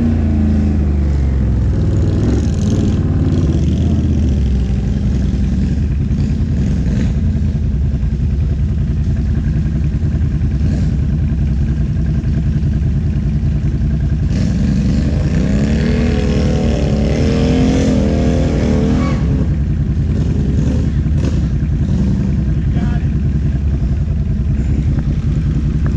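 ATV engine running steadily under throttle, its pitch rising and falling as it revs, most clearly a little past the middle.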